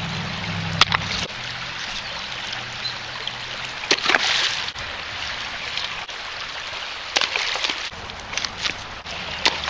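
Shallow creek water running, broken by a handful of splashes and knocks as rocks are dropped into the water, the biggest splash about four seconds in.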